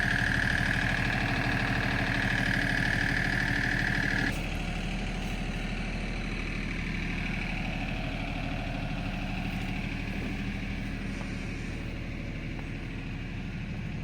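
A vehicle engine running steadily, with a loud steady high-pitched whine over it that cuts off about four seconds in.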